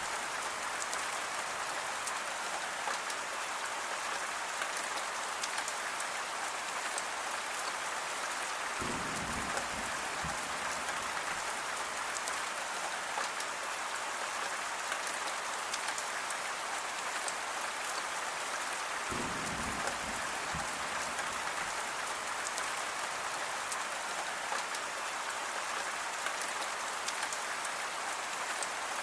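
Steady rain falling, an even hiss of rain with the patter of individual drops. A brief low rumble comes twice, about ten seconds apart.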